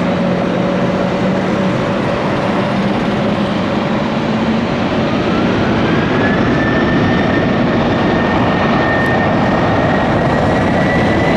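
Jet airliner engines at takeoff thrust on a departure run: a loud, steady rush of engine noise with a high whine that glides up in pitch about halfway through.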